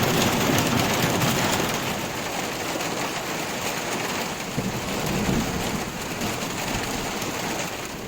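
Heavy rain falling steadily, with low rolls of thunder rumbling beneath it, one near the start and another about halfway through.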